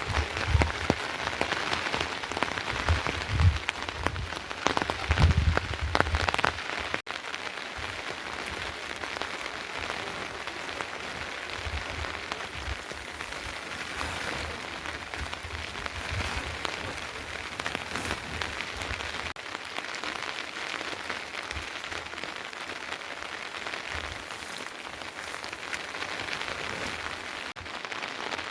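Steady rain falling, an even hiss of drops, with low thumps in the first several seconds.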